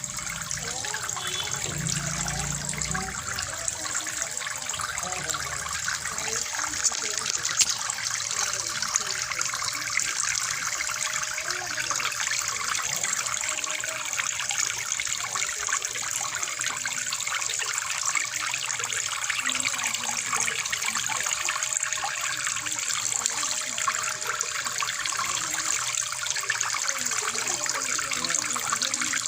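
Water pouring steadily from a homemade plastic-bottle fountain and splashing down into the water below, with an even, unbroken splashing.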